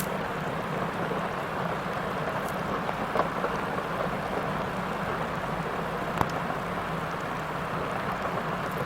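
Excavator's diesel engine running steadily under a constant rush of river water, with a couple of brief sharp knocks about three and six seconds in.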